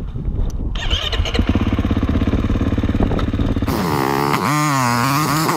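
Dirt bike engine idling steadily, then, about three and a half seconds in, revving with its pitch rising and falling repeatedly under the throttle.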